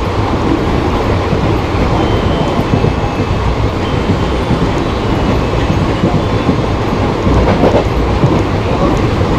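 Express passenger train running along the track, its coaches making a steady loud rumble with wheel noise over the rails.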